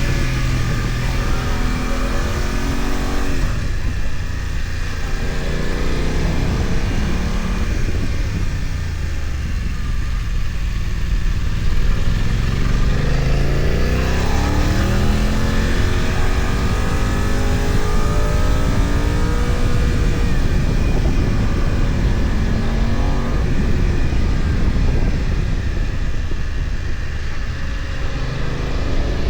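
BMW F900XR's parallel-twin engine heard on board, with rising revs under acceleration, an easing-off a few seconds in, and the pitch climbing again about halfway through. Steady rushing noise underneath.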